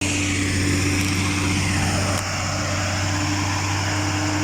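Heavy diesel truck engine running with a steady low drone, labouring on a steep ghat climb.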